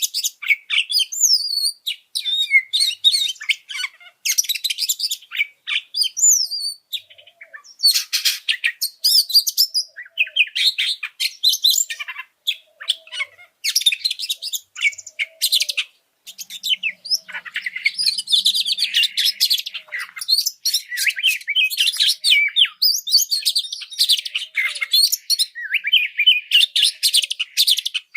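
Oriental magpie-robin (kacer) singing an agitated, fired-up song: fast, varied chirps, trills and whistles in phrases of one to a few seconds, separated by brief pauses.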